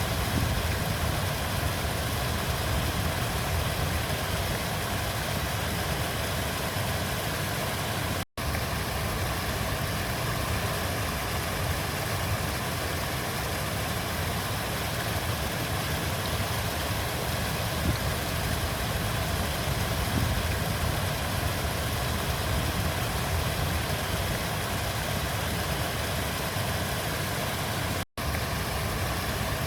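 Flowing river water, a steady rushing that cuts out for an instant twice.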